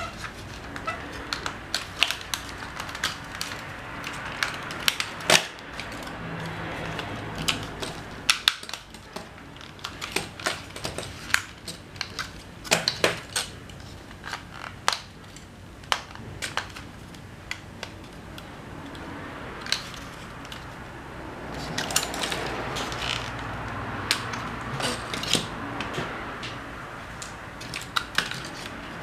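Irregular clicks, taps and knocks of small hard parts and tools being handled while an SG900-S drone is worked on, with a longer stretch of scraping and rustling in the second half.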